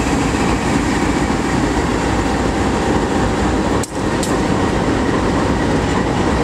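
A CSX freight train rolling past close by: a steady, loud rumble of wheels on rail. The sound briefly drops out about four seconds in.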